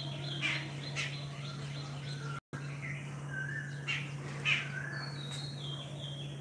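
Birds chirping with short calls over a steady low hum. The sound drops out completely for an instant about two and a half seconds in.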